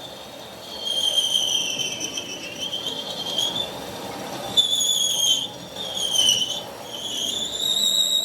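High-pitched metal-on-metal squealing, wavering in pitch, in about five stretches of a second or so each.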